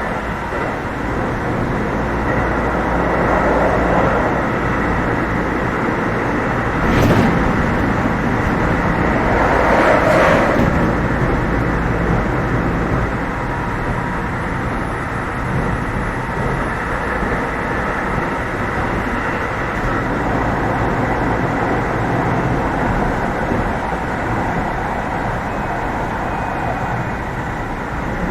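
Running noise heard inside a Keio 7000 series train car travelling at speed: a steady rumble of wheels on rail. Two brief louder swells come about 7 and 10 seconds in.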